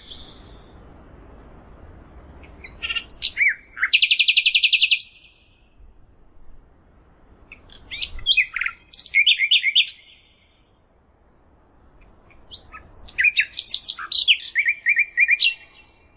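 A songbird singing three loud bursts of song, each a quick run of varied whistled notes ending in a rapid trill, with pauses of a few seconds between them.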